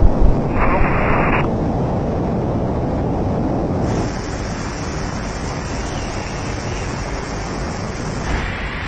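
Steady rush of wind over the microphone in flight, with a brief brighter hiss about a second in.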